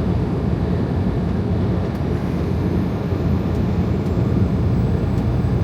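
Steady engine and road noise inside a semi truck's cab while cruising on the highway, mostly a low rumble.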